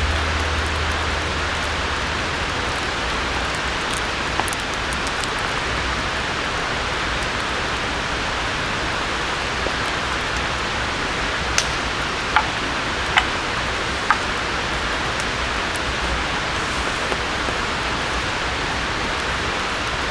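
Steady rain falling in a forest, an even hiss throughout, with four sharp ticks about a second apart around the middle.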